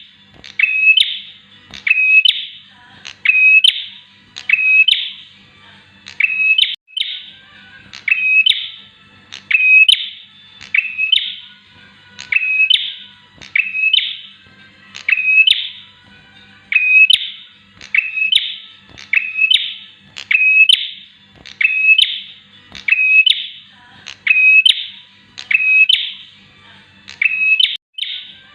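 Bar-winged prinia calling: a sharp, piercing call repeated evenly, a little more often than once a second, each one a quick upward flick into a short steady note.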